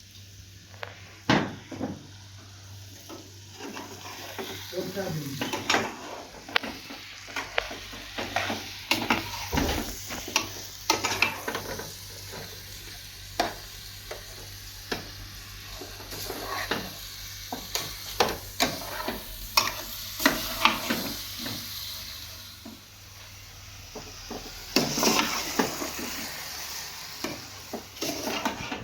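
Irregular scraping strokes and clinks of hand tools working a gritty material, over a steady hiss, with a louder cluster of scrapes near the end.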